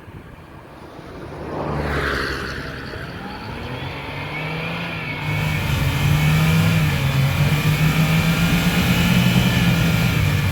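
UAZ 4x4's engine revving hard under load. It climbs about two seconds in, is held high for several seconds, then eases off near the end as the mud tyres dig in.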